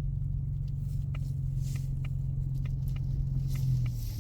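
Steady low drone of a 2024 Ford Mustang EcoBoost's turbocharged four-cylinder and running gear, heard inside the cabin while driving on snow, with faint irregular ticks over it.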